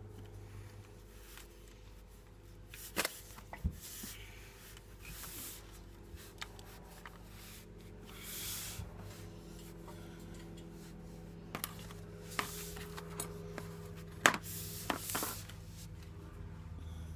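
Hand tools working on a motorcycle's oil pan bolts: scattered metal clicks and knocks with a few brief rubbing sounds, the sharpest click about fourteen seconds in, over a steady low hum.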